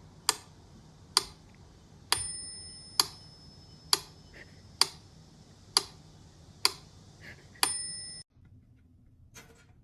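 Sharp clicks at an even pace, a little under one a second, a couple of them ringing briefly. They stop suddenly about eight seconds in.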